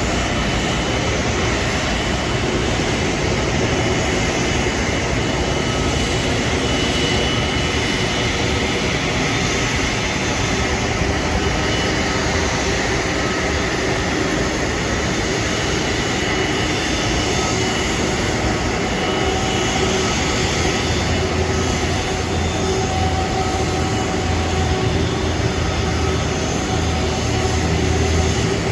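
Airbus A330 jet engines running, a steady loud rush with a faint high whine; a deeper rumble swells from about two-thirds of the way in.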